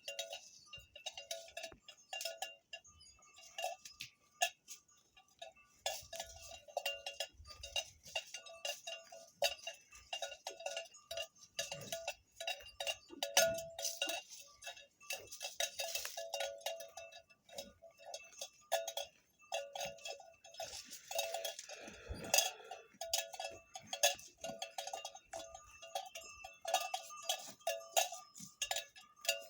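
Cowbells on cattle clanking irregularly, many strikes overlapping, with a ringing metallic tone.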